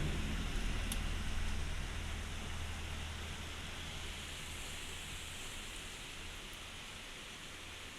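Heavy rain pouring steadily, with a low rumble that dies away over the first few seconds.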